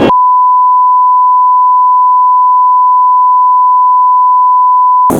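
Censor bleep: one steady pure beep held for about five seconds, cutting in and out abruptly, laid over swearing.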